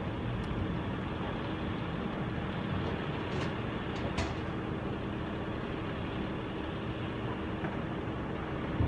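Garbage truck's engine running steadily, with a steady hum and a few faint clicks.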